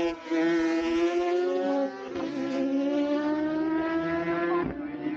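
Racing superbike engines at high revs, their pitch climbing steadily with short breaks at gear changes about two seconds in and again near the end.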